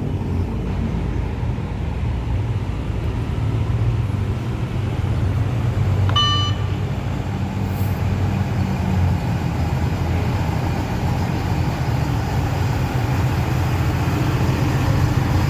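Fire truck's engine running steadily with a low drone, with one short beep about six seconds in.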